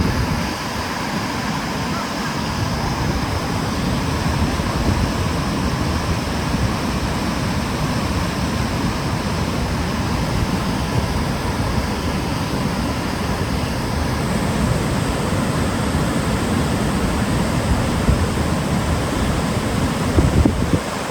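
Kjosfossen waterfall: a steady, loud rush of falling water, with no break or change.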